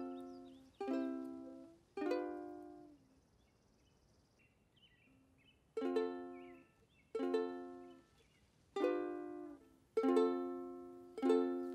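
Soundtrack music of strummed chords on a plucked string instrument, each chord ringing and fading. Three chords come about a second apart, then a pause of about three seconds, then five more at a similar pace.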